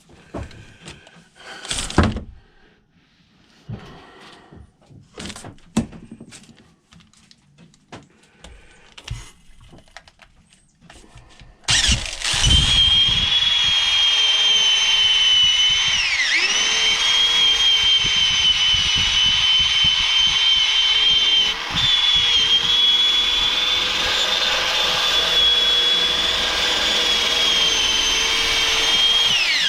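A few knocks and clatters of handling, then about twelve seconds in a handheld electric power tool starts and runs steadily with a high whine, sanding rust off a steel axe head held in a vise. Its pitch sags briefly twice.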